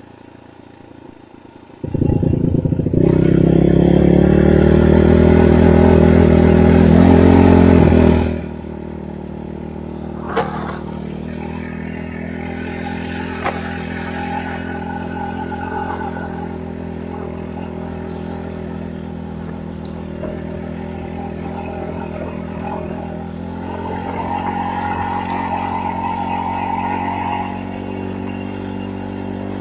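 Enduro motorcycle engine that comes in suddenly about two seconds in and revs with rising pitch for several seconds. It drops about eight seconds in to a steady low run, swelling slightly again near the end.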